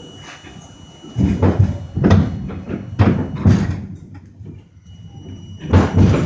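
Sliding doors of an R42 subway car banging shut several times at irregular intervals, heavy thuds over a quiet car.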